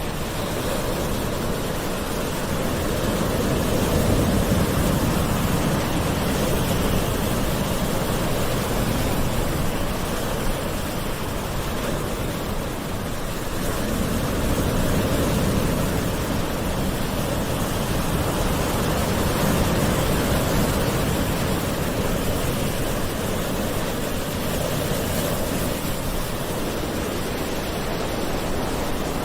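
Gentle ocean waves washing in as a steady rush, swelling and easing every several seconds.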